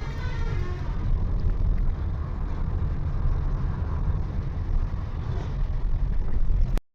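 A vehicle driving on the road: a steady, heavy low rumble of engine and road noise with wind hiss. The sound cuts out abruptly near the end.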